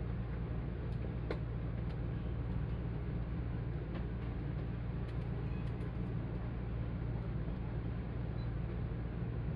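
Steady low rumble of a 185 series electric train running, heard from inside the carriage, with a few faint clicks scattered through it.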